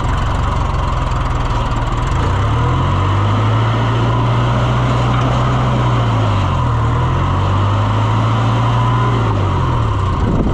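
A farm vehicle's engine running under changing throttle, working uphill. Its pitch rises about two seconds in, dips briefly near the middle, rises again and drops back near the end.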